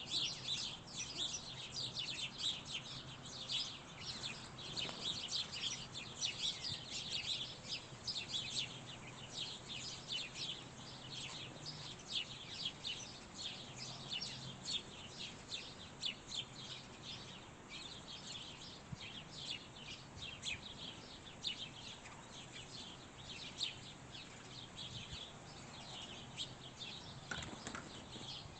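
Small songbirds chirping and calling continuously, many short overlapping chirps at once.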